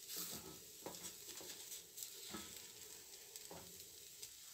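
Egg tortilla frying in a pan over a very low flame, a faint steady sizzle, with a few light knocks.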